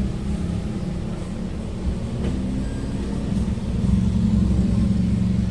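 Car engine running steadily with a low hum, getting louder about four seconds in.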